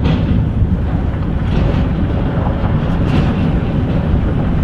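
A truck driving along the road: a steady low rumble of engine and road noise.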